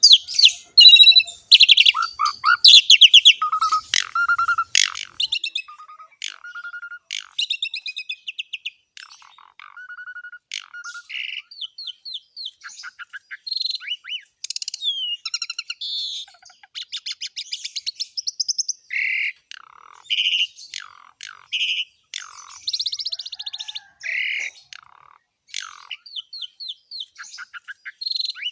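Asian pied starling (jalak suren) singing a long, varied song of whistles, chirps, slurred notes and rapid rattles, full of mimicked fill notes. It is loudest in the first few seconds.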